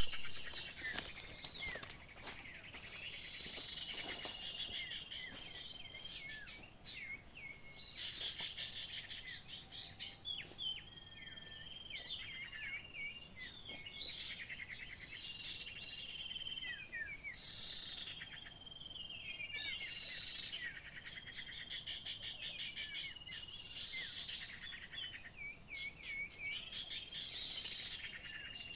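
Small songbird singing a phrase over and over, about every three seconds: a rapid high trill, a level whistle and a few short chirps.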